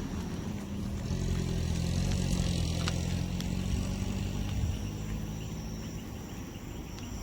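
A motor vehicle's engine drones low and steady, growing louder about a second in and fading out after about five seconds. A steady high-pitched insect buzz runs underneath.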